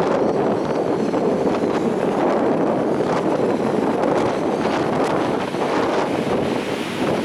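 Storm-force wind buffeting the microphone in a steady, loud rush, with the surf of a stormy sea mixed in underneath.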